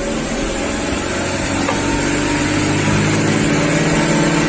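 BMW M43TU four-cylinder engine revving up under a steadily pressed accelerator, climbing toward 3500 rpm, where the DISA intake valve is to open. Pitch and loudness rise slowly and evenly.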